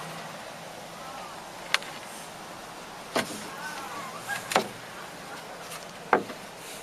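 Four sharp knocks about a second and a half apart, with a few faint chirps between them.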